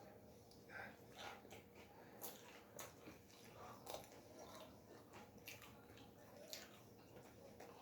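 Faint, close-miked chewing of pizza: soft wet mouth smacks and clicks, coming irregularly several times a second.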